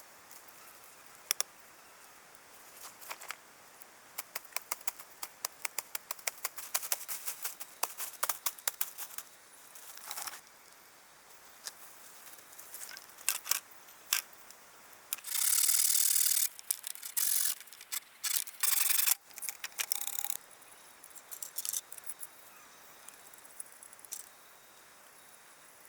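Quick, irregular clicks and light rattling, then several loud bursts of rustling or scraping, each lasting a second or two, in the second half.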